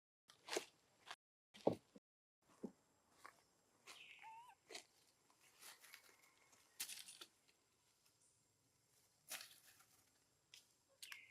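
Scattered soft rustles and sharp clicks, with one short, wavering squeak from a young long-tailed macaque about four seconds in. The sound drops out to total silence twice near the start.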